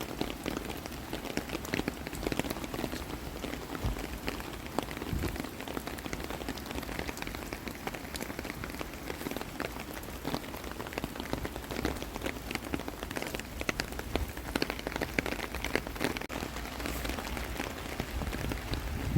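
Steady rain falling, with many individual raindrops ticking close by.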